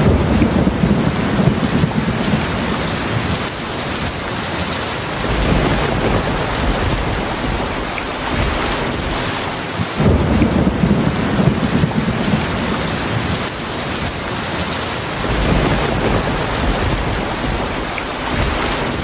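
Heavy rain falling steadily in a thunderstorm, with rolls of thunder rumbling low beneath it. One roll starts suddenly at the start and another about halfway through, and a softer rumble swells about three quarters of the way in.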